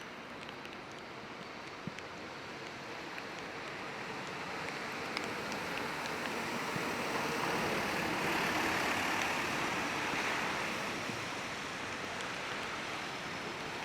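A vehicle passing on a wet street, its tyres hissing on the water as it swells up and fades away, peaking a little past the middle, over the steady patter of rain.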